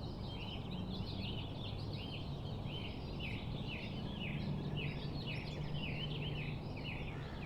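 A bird chirping over and over in short, quick notes, about three a second, over a faint low steady hum.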